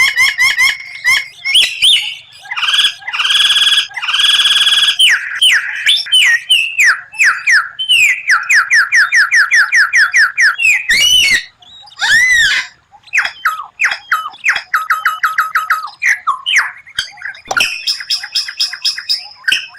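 White-rumped shama (murai batu) singing a loud, varied song: harsh buzzy notes, fast runs of repeated 'tembakan' notes at about six a second, and rising-and-falling whistled notes about eleven to twelve seconds in.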